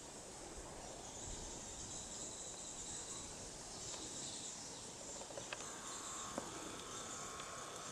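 A steady, high-pitched chorus of insects, with a couple of faint clicks a little past the middle.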